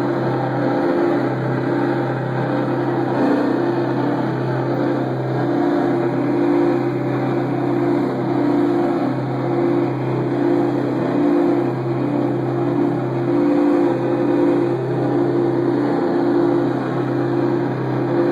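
Heavily distorted electric guitar and bass sounding a loud, sustained low drone through the amplifiers, pulsing slowly.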